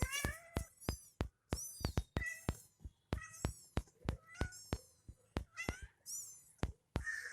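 Kittens mewing over and over in short, high-pitched cries, mixed with many sharp clicks.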